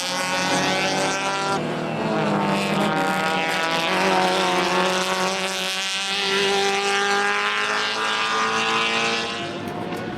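Race car engines running at high revs, a steady engine note whose pitch shifts slowly, rising gradually through the middle.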